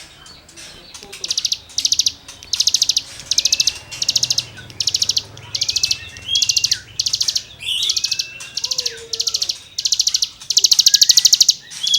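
Cigun songbird in full song, giving its rasping 'gesekan' phrases: very fast, high, buzzy trills about half a second long, repeated roughly once a second, with short rising whistles between them.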